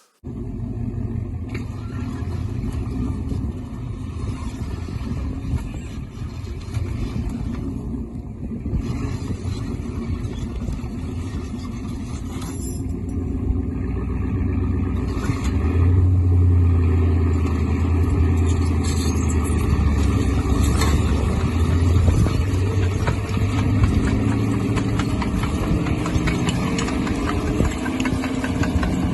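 Linn tractor's gasoline engine running steadily, growing louder and deeper from about halfway through.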